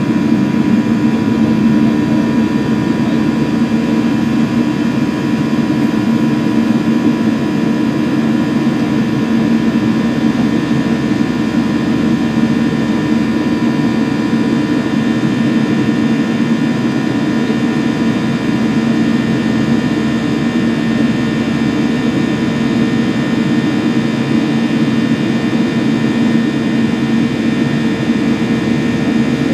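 Boeing 737-800's CFM56-7B jet engines running steadily, a constant jet noise with a steady hum and whine that holds one pitch.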